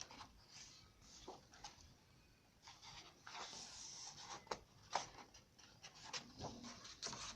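Faint handling of a colouring book's thick paper pages: scattered light taps and ticks, with a soft papery swish as a page is turned a little past the middle.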